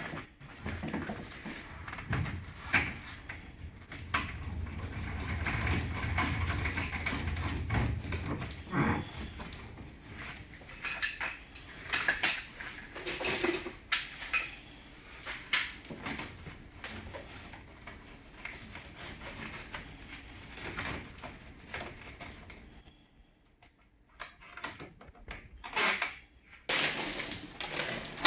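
Scattered clinks, knocks and clatter of tools and hardware being handled during air-conditioner installation work, with a low rumble for several seconds early on and a brief drop to near silence near the end.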